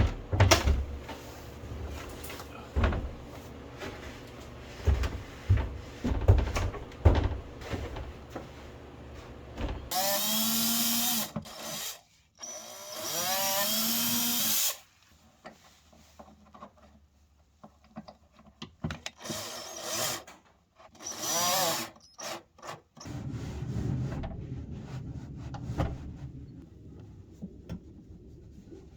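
Power drill running in short bursts of about two seconds each, its pitch bending as it works, with scattered knocks and handling thumps before the first run.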